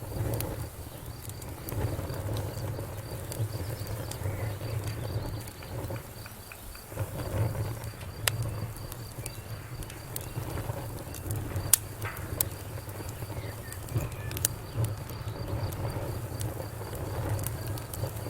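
Wood fire crackling: sharp pops and snaps at irregular moments over a low rumble of the burning fire, with a faint, steady high chirping underneath.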